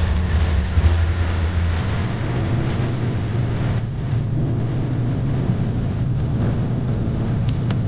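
Steady low vehicle engine rumble over a wash of noise, its pitch stepping up slightly about two seconds in.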